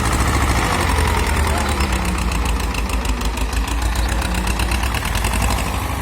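Escort tractor's diesel engine running with a steady low rumble.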